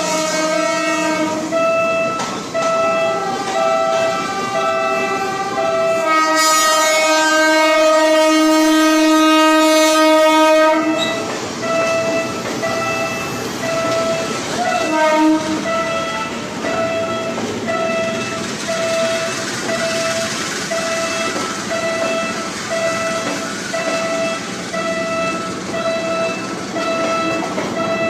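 Railroad crossing warning signal ringing in steady pulses about once a second. A Philippine National Railways commuter train sounds one long horn blast, then passes with a rumble of wheels on rail.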